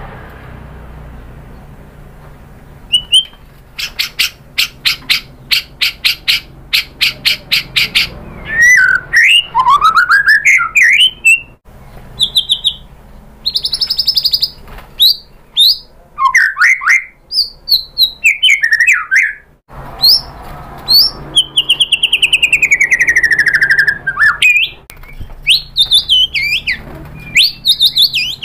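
White-rumped shama singing a varied song: a run of quick repeated notes, sweeping rising and falling whistles, and a long falling trill near the end.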